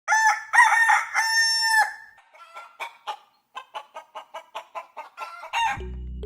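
A rooster crows, ending in a long held note, followed by a run of short clucking calls at about four a second. Music starts near the end.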